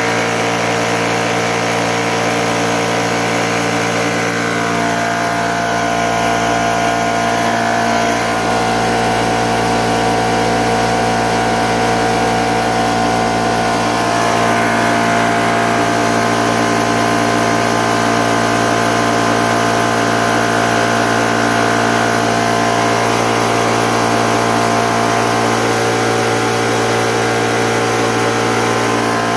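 High-pressure PCP air compressor running steadily, a constant mechanical hum with a mix of fixed tones that barely changes.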